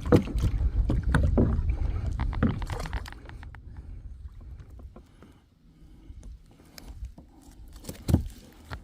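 Water and handling noise on a fishing kayak: a low rumble with scattered knocks against the hull, loudest for the first three seconds and then fading, with one sharper knock near the end.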